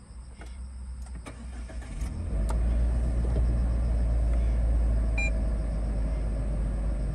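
A few clicks, then a Suzuki Every Wagon kei van's engine starts about two seconds in and settles into a steady idle. A short electronic beep sounds a few seconds later.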